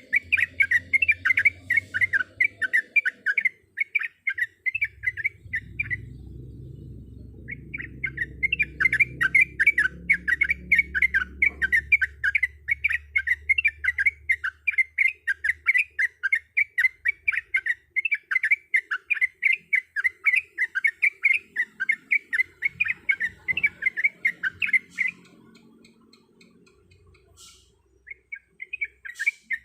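Yellow-vented bulbul (trucuk) singing a fast, continuous run of short bubbly notes. It breaks off for a few seconds near the start, stops again a few seconds before the end, then resumes. A low rumble underlies part of the song.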